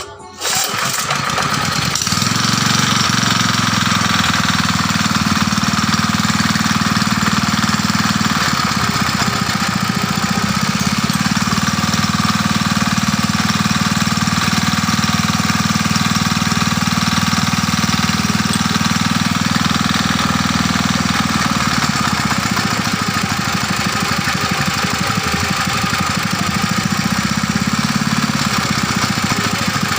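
Restored old diesel engine starting about a second in, then running steadily with a rapid, even knocking beat.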